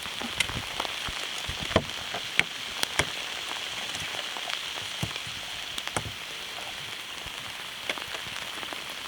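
Steady rain falling, an even hiss with scattered sharp taps of drops or small knocks close by.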